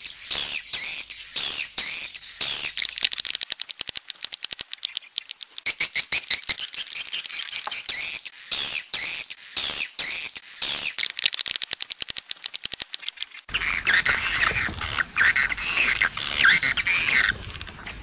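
Swiftlet calls: rapid chirping twitters with stretches of fast clicking, mostly high-pitched. About thirteen seconds in, the sound changes to a denser, lower twitter over a background hiss.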